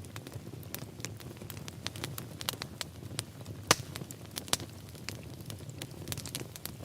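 Wood fire in a fireplace crackling: a low steady rumble of flames with frequent irregular pops and snaps, one sharper pop near the middle.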